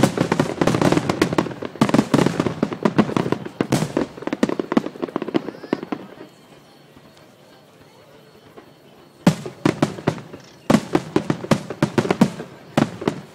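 Aerial fireworks bursting in rapid volleys of sharp cracks. They fall away for about three seconds in the middle, then the bursts start again.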